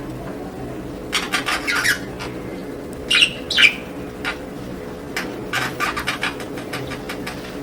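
Budgerigars chattering in short bursts of quick, scratchy calls, with two louder chirps about three seconds in, over a steady low hum.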